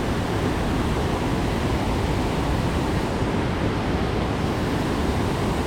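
Steady rush of river water at the dam tailwater, an even noise that does not change.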